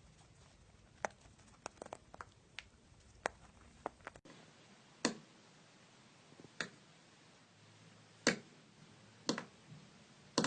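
Scattered sharp taps, about a dozen, spaced irregularly over a quiet room background.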